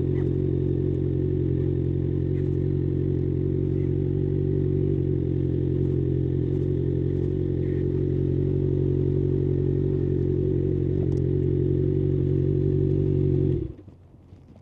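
2024 Kawasaki ZX-6R's 636 cc inline-four engine idling steadily at an even pitch, then switched off about thirteen and a half seconds in, cutting out abruptly. A few faint clicks follow.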